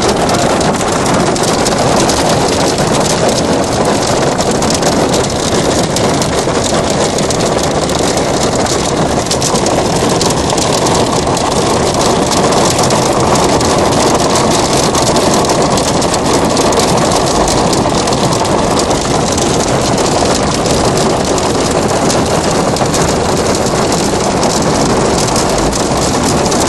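Heavy hail falling, countless hailstones striking surfaces in a dense, steady clatter that does not let up.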